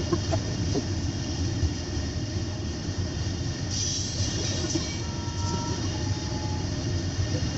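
Train cars rolling past on the rails in a steady rumble, with a brief hiss about four seconds in and faint short wheel squeals a second later.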